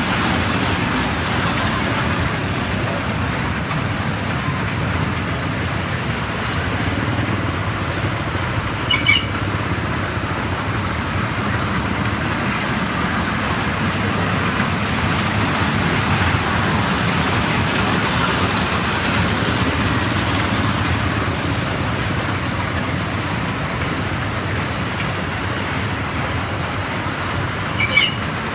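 Steady rumble of a moving train. Two brief high squeaks stand out, one about a third of the way in and one near the end.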